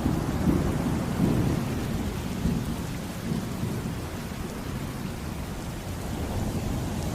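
Rolling thunder rumbling over steady rain. The rumble is strongest in the first couple of seconds and then eases off under the rain.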